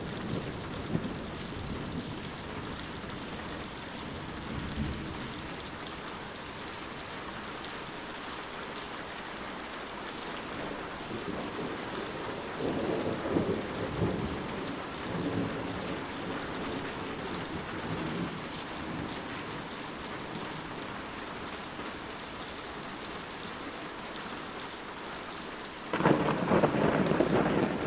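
Steady rain with low rolls of thunder, a long rumble about halfway through; near the end the sound turns suddenly louder.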